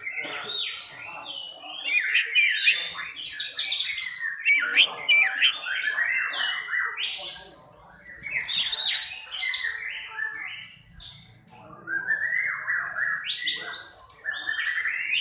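Oriental magpie-robin (kacer) singing a loud, varied song of quick whistled and scratchy phrases. The song breaks off briefly about halfway through and again about three-quarters through, with the loudest phrase just after the first pause.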